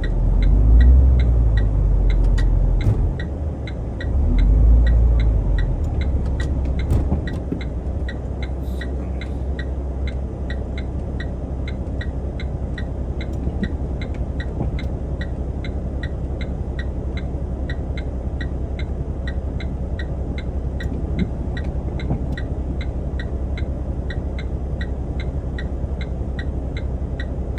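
Truck's diesel engine heard from inside the cab, surging loudly twice in the first six seconds, then settling to a steady low idle hum. A light regular ticking, about two ticks a second, runs over the idle.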